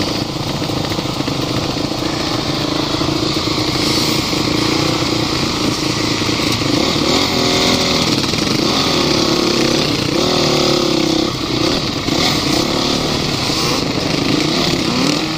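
Off-road vehicle engine running hard under a steady rushing noise. From about halfway through, its pitch rises and falls several times as it revs up and down.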